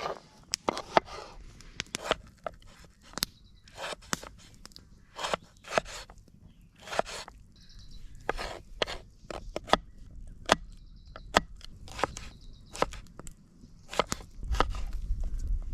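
Irregular sharp knocks and clicks, each with a short scrape, coming one to three a second. A low rumble comes in near the end.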